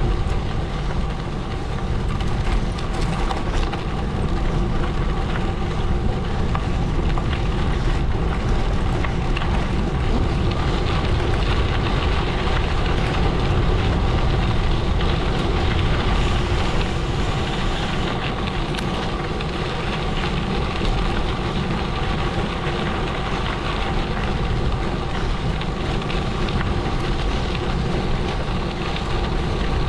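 Gravel bike tyres rolling steadily over a gravel road, with wind noise on the microphone.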